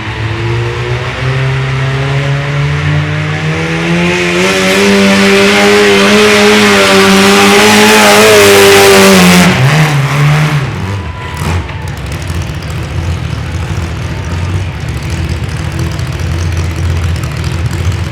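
Multi-engine pulling garden tractor running hard under load, its engine pitch climbing steadily for about nine seconds to its loudest, then falling off suddenly and settling to a lower, rougher running.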